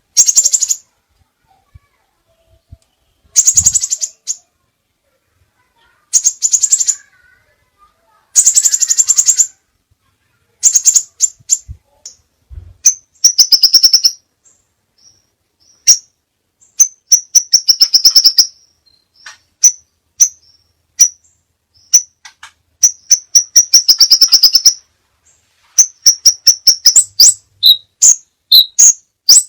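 Crimson sunbird singing: high, rapid trills of about a second each, repeated every few seconds, with short sharp chirps between them and a run of quick separate notes toward the end.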